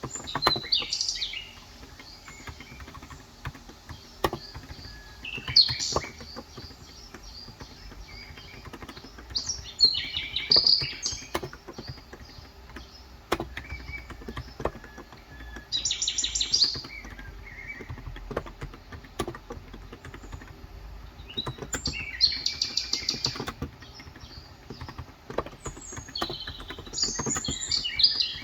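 Birds chirping in about six short bursts of rapid high notes, a few seconds apart, over scattered keystrokes on a Cox Endeavor 35 g electrostatic-capacitive keyboard.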